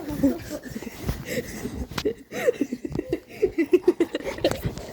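A person laughing in short, rapid bursts, with scuffling and rustling as a dog plays rough with them.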